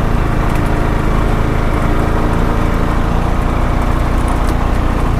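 Honda Pioneer 520 side-by-side's single-cylinder engine running steadily, with a few faint clicks over it.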